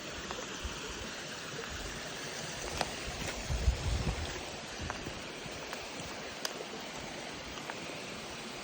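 Hiking footsteps on a dirt and rock trail, with light crunches and clicks and a heavier low thud about three and a half seconds in, over a steady rushing background.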